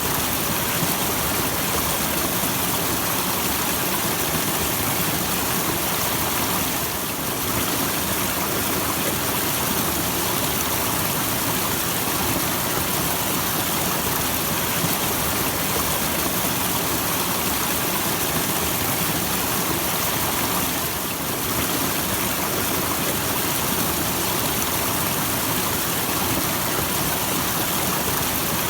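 A small waterfall rushing steadily, an even hiss of falling water.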